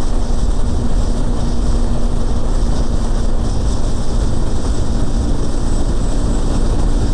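A 160 cc motorcycle engine running at a steady cruise under heavy wind rush on the microphone, the engine's hum holding one steady pitch.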